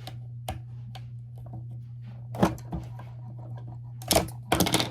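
Small plastic toy pieces being handled and fitted together: scattered clicks and taps, one loud tap about halfway and a burst of clattering knocks just after four seconds, over a steady low hum.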